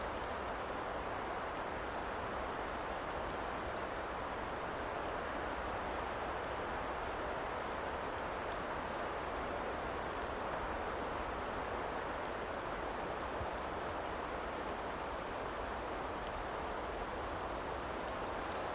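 Steady woodland ambience: an even, unbroken rushing noise with a low rumble beneath and faint, short, high-pitched chirps now and then.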